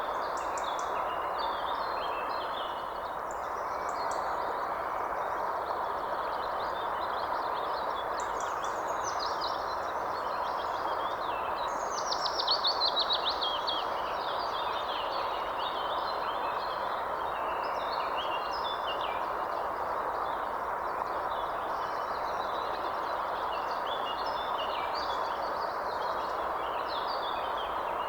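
Several birds chirping and calling over a steady rushing background noise. About halfway through, one louder call runs down in pitch as a quick series of notes.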